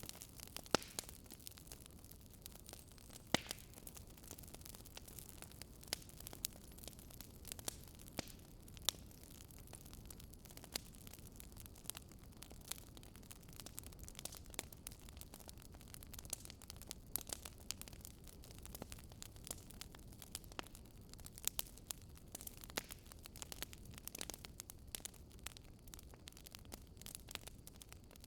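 Wood fire burning, with frequent sharp, irregular crackles and pops over a low steady rumble of the flames.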